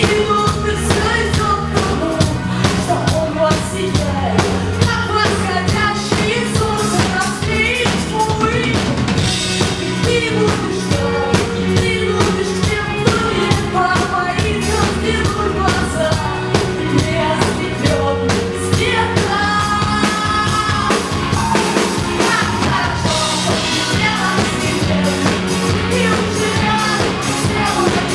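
A band playing live: a drum kit keeps a steady, busy beat over bass, with melodic lines and some singing on top.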